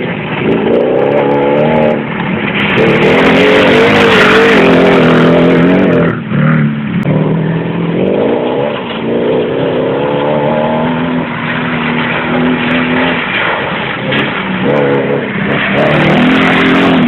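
Audi 4.2-litre V8 engine swapped into a Toyota Land Cruiser 70, running loudly under way, its revs rising and falling several times with brief dips between pulls.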